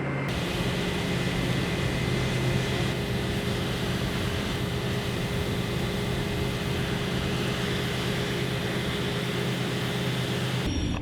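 Heavy machinery running steadily: a constant drone with a low hum and a faint high whine.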